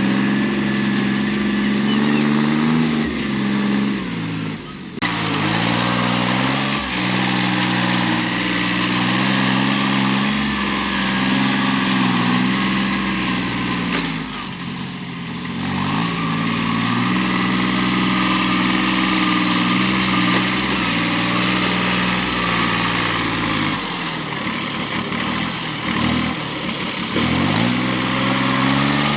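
Vehicle engine running with its speed rising and falling over and over, as when working under changing load, with short drops in pitch about five seconds in, around halfway, and a few seconds before the end.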